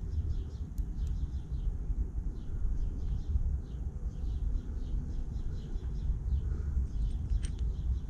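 A small bird chirping over and over in short, falling calls, about three a second, over a steady low outdoor rumble. A few light clicks come from the freehub parts being handled.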